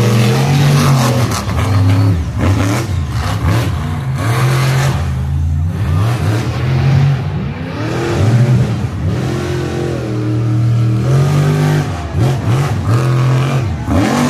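Monster truck engines revving hard during a race run, the pitch climbing and dropping again and again as the throttle is worked, with some rattling knocks among the engine noise.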